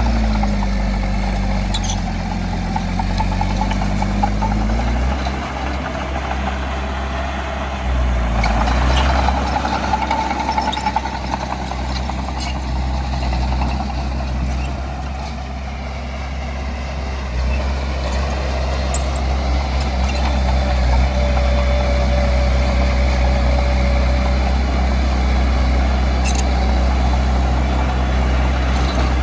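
Bulldozer's diesel engine running steadily, its pitch and load shifting several times as it works, with a few brief metallic clanks.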